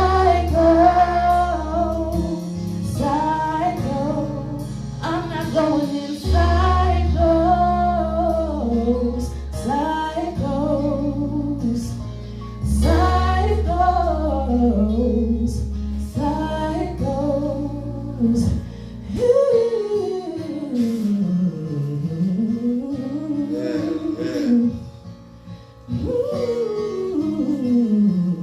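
A woman singing a gospel praise song with instrumental accompaniment. Sustained low notes underpin her until about two-thirds of the way through, where they drop out and her voice carries on with long sliding runs up and down.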